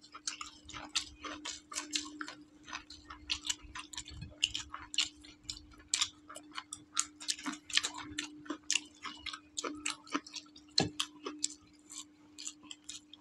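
Two people eating tehari by hand: irregular soft clicks and smacks of chewing, several a second, over a steady low hum.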